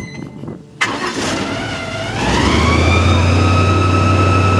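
Tour boat's engine opening up. It comes in suddenly about a second in, rises in pitch, then holds a steady, loud drone at speed.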